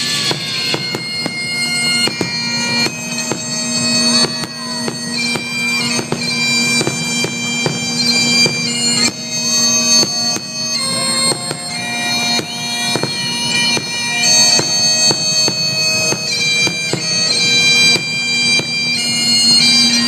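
Bagpipe music: a steady drone under a chanter melody, its notes broken by quick grace notes.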